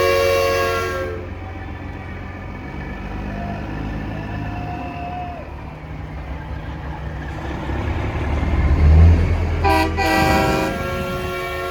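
Semi trucks' air horns sounding in loud multi-tone chords, fading out about a second in, with diesel engines rumbling low between blasts. A short horn blast comes about ten seconds in, and another horn starts near the end.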